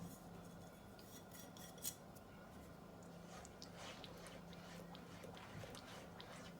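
Faint clicks and light scraping of a utensil against a saucepan, with one sharper click about two seconds in, over a low steady hum.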